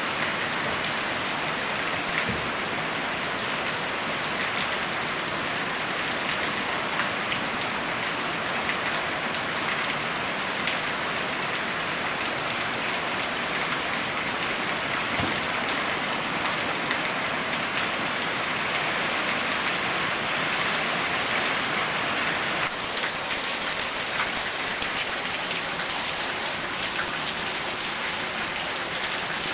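Very heavy rain pouring down and drumming on surfaces, a steady dense hiss with scattered drips and taps.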